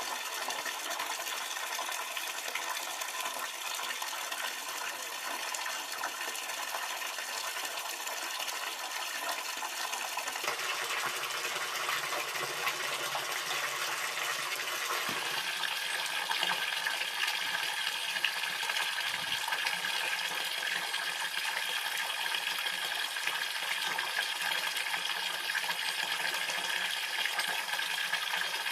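Running water, a steady splashing rush that shifts in tone about ten seconds in and again about fifteen seconds in.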